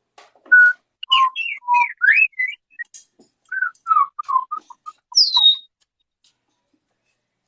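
Parrot whistling and chirping: a run of short whistled notes, several sliding up or down in pitch, ending about five seconds in with a falling whistle.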